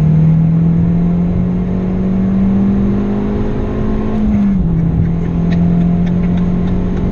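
Tuned Abarth 595's turbocharged 1.4-litre four-cylinder engine, running at about 250 bhp on a larger turbo, heard from inside the cabin pulling hard under acceleration. Its pitch climbs slowly, drops suddenly about four and a half seconds in as it shifts up a gear, then pulls steadily again.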